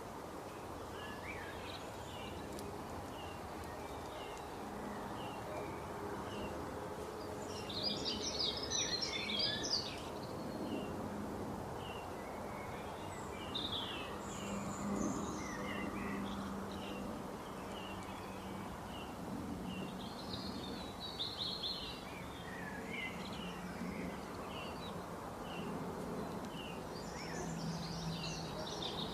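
Birds calling: a regular series of short chirps, with denser bursts of twittering about eight seconds in, around twenty seconds in and near the end, over a steady low background hum.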